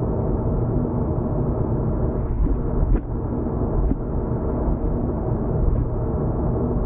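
Steady low rumble of a car driving at expressway speed, heard from inside the cabin, with a faint steady hum and two brief thumps about three and four seconds in.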